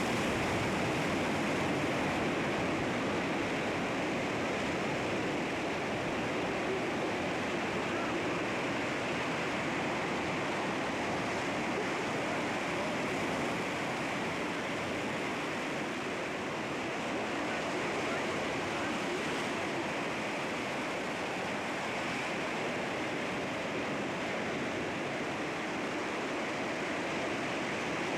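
Sea waves washing against rocks: a steady rush of surf with no distinct single crashes.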